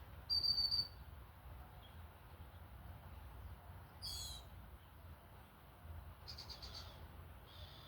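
Small birds calling: a loud, high, steady whistle near the start, a falling note about four seconds in, and a quick run of notes followed by a short buzzy note near the end, over a low steady rumble.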